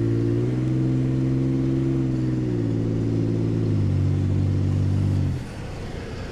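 Vehicle engine heard from inside the cab, a steady low hum that shifts pitch a few times. It cuts off abruptly about five seconds in.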